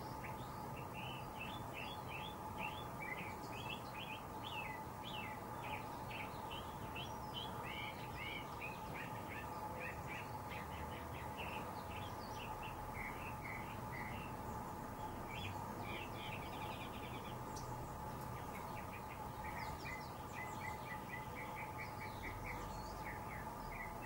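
Small birds chirping and twittering in quick runs of short high notes, busiest in the first half and ending in a fast even string of chirps, over a steady background hum.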